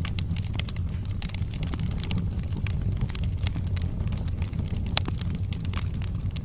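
Wood fire burning in a fireplace: frequent sharp crackles and pops of the logs over a steady low rumble, with one sharper pop about five seconds in.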